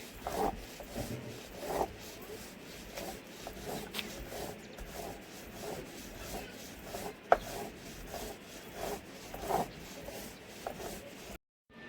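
Repeated rubbing and scraping strokes, roughly one a second and unevenly spaced, with one sharp click about seven seconds in; the sound cuts off abruptly just before the end.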